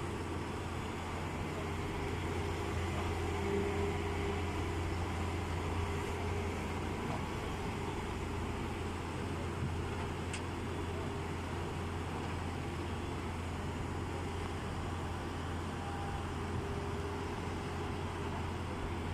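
Excavator's diesel engine running with a steady low drone, swelling slightly a few seconds in as it works.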